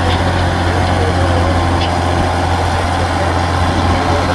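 1962 Ford 6000 tractor's 240-cubic-inch engine running steadily with a deep, even drone.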